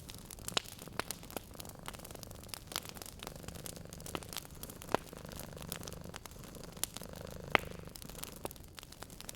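Wood fire in a fireplace crackling, with irregular sharp pops, two louder ones about five and seven and a half seconds in. Beneath it, a cat's low steady purr.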